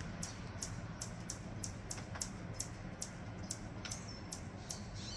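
A bird chirping in a steady rhythm, short high chirps about three a second, with a brief whistled note near the end, over a low steady background hum.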